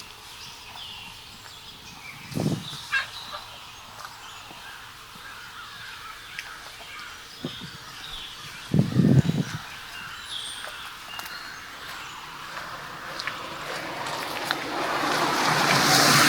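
Small birds chirping and calling on and off. There are a couple of dull thuds, one near the start and a louder pair about nine seconds in. Over the last few seconds a rushing noise builds up and grows loud.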